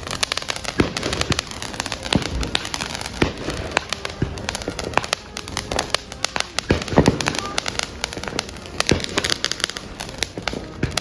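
Consumer fireworks going off: a dense, continuous run of sharp pops and crackles, with heavier bangs about two seconds in and again about seven seconds in.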